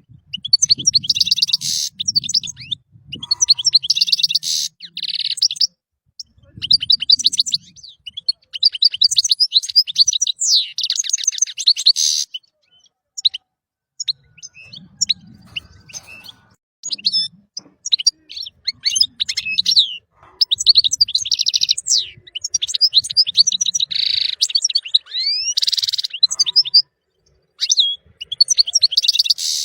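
European goldfinch singing: bursts of rapid, high twittering with fast trills and quick rising and falling notes, broken by short pauses.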